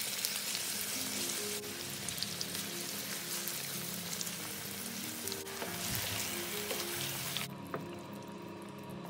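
Marinated chicken pieces sizzling as they fry in hot oil in a pan and are turned with a wooden spatula, with soft background music underneath. Near the end the sizzling drops away, leaving the music.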